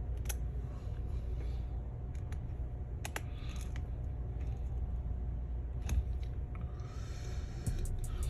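Scattered small clicks and taps of a precision Torx screwdriver and tiny screws being worked on a MacBook Air's hinge, with a quick run of clicks near the end, over a steady low hum.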